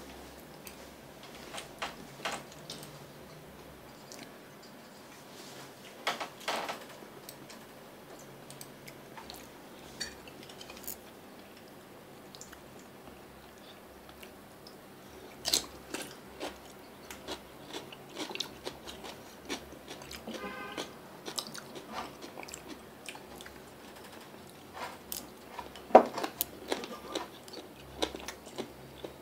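A person eating chopped meat close to the microphone: chewing and biting with scattered crunches and clicks, the loudest a sharp knock near the end.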